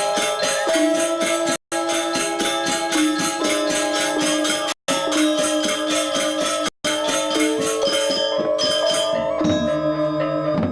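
Balinese gamelan gong ensemble playing a classical lelambatan piece: bronze metallophones and gongs ringing under fast, jangling cymbal strokes. The sound cuts out to silence briefly three times, and the high jangling thins out near the end, leaving the lower gong tones.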